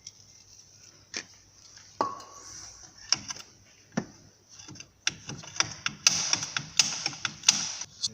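Metal hand tools clinking and knocking against the car's front suspension parts while the upper-arm bolts are worked on: scattered sharp clicks, one short ringing clink about two seconds in, then a quick run of clicks and knocks over the last three seconds.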